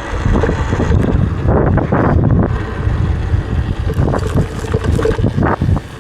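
Heavy wind buffeting on the microphone of a rider moving on an electric dirt bike: a loud, gusty rumble that surges unevenly, with a few brief knocks or rattles in it.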